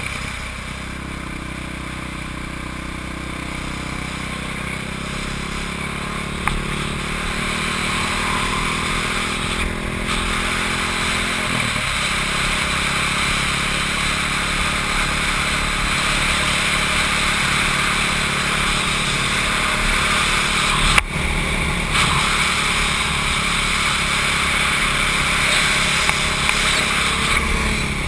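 Motorcycle engine heard from on board over wind rush on the microphone. Its note climbs slowly, drops sharply about twelve seconds in, then holds fairly steady. One sharp click comes about two-thirds of the way through.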